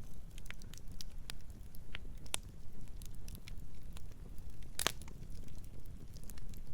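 Campfire burning with a low steady rumble and irregular wood crackles and pops, one sharper pop about five seconds in.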